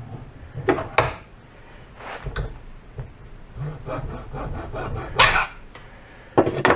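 A piece of rubber hose being cut lengthwise to make a slot: irregular rubbing and scraping strokes, with a few sharper, louder strokes about a second in, around five seconds in and near the end.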